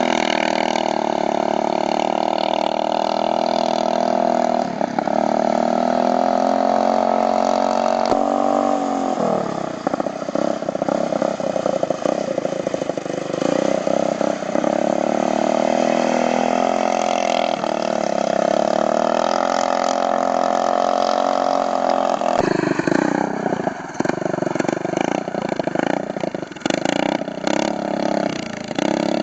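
Small riding lawn mower engine running loud through a transport truck horn welded on as its exhaust pipe, giving a strong, horn-like tone. The engine speed drops about a third of the way through and climbs back, then runs unevenly near the end.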